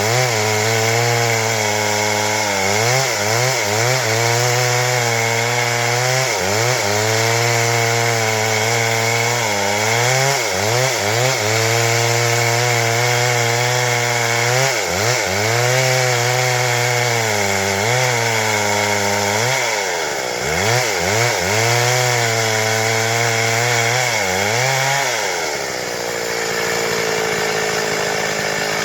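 Stihl MS 382 two-stroke chainsaw running at high revs while cutting boards from wood. Its pitch sags and recovers again and again as the chain loads up in the cut. Near the end the revs drop to a lower, steady note.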